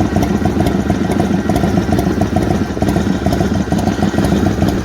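2000 Harley-Davidson Softail Springer's Twin Cam 88B V-twin idling steadily through a D&D Fat Cat 2-into-1 exhaust, with an uneven, loping beat.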